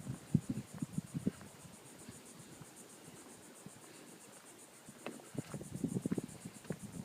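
Crickets chirring with a steady, evenly pulsing high trill. Irregular soft low thumps come over it in the first second and again in the last two seconds.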